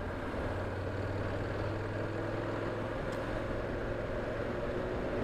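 Motorcycle running at a steady pace in traffic, a steady engine hum under road and wind noise, heard from a helmet-mounted camera.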